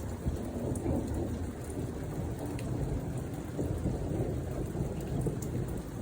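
Long rolling rumble of thunder that swells at the start and keeps rolling, with rain falling.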